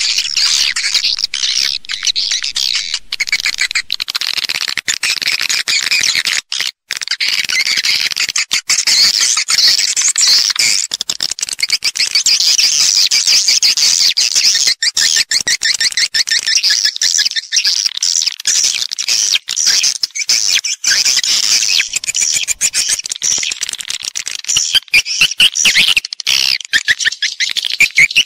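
Swiftlet calls, the call-and-roost sound used to lure swiftlets into a nesting house: a loud, dense, continuous twittering chatter, high in pitch, with a brief break about seven seconds in.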